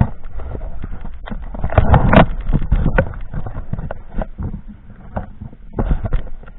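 Boat on choppy lake water: irregular knocks and slaps over a steady rush, loudest about two seconds in.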